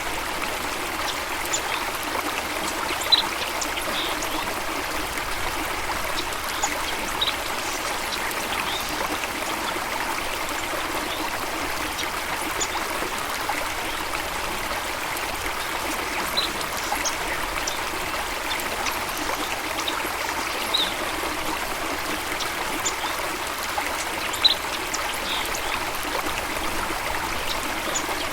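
Running water flowing steadily, a stream or waterfall rush, with short high bird chirps scattered every few seconds.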